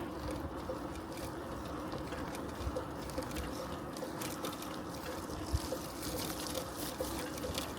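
Bicycle riding along with a steady rolling noise from the tyres and road, and a faint regular tick about twice a second.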